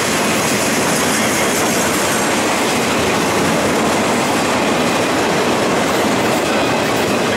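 Freight train cars rolling past on the rails, a steady, unbroken noise of wheels on track.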